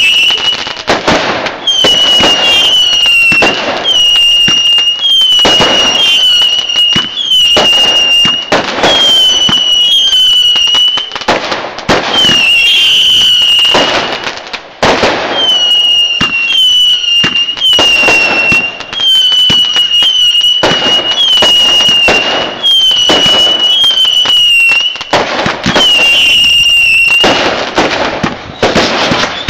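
Fireworks barrage firing a fast run of whistling shots: a string of short whistles, each dipping slightly in pitch, about one or two a second, over the bangs and crackle of the bursts. There is a brief lull about halfway through.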